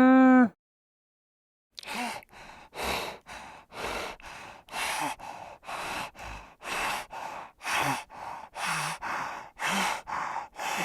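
A farm animal's pitched call ends about half a second in. After a short silence comes a run of rapid, breathy puffs of heavy breathing, about two a second, alternating louder and softer.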